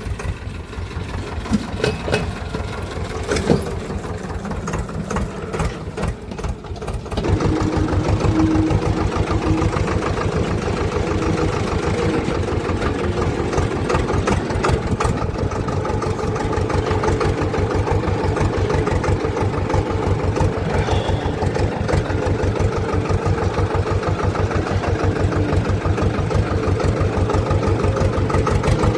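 Swaraj tractor's diesel engine running with an even, rapid low firing beat. It is quieter with a few sharp knocks for the first seven seconds or so, then becomes louder and holds steady.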